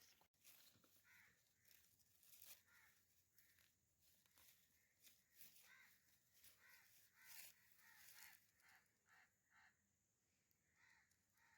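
Near silence: faint outdoor ambience with many short bird calls repeated at irregular intervals.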